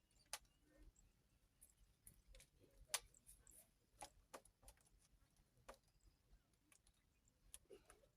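Near silence broken by faint, irregular small clicks and ticks, the loudest about three seconds in.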